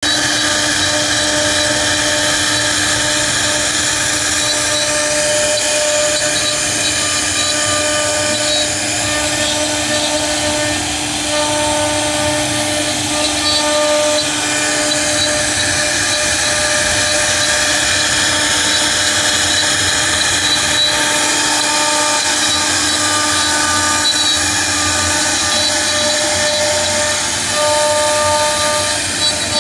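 CNC router running a 3D carving job: the spindle gives a loud, steady whine over a noisy hiss, with several held tones that come and go as the machine moves.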